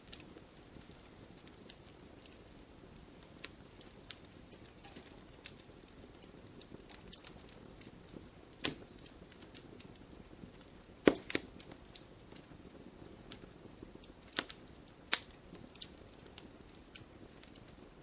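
Campfire burning with irregular crackles and sharp pops over a low hiss, the loudest pops about 9, 11 and 15 seconds in.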